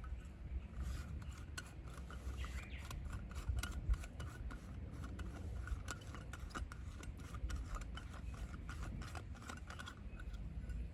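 An irregular run of short scraping and rubbing sounds over a low rumble.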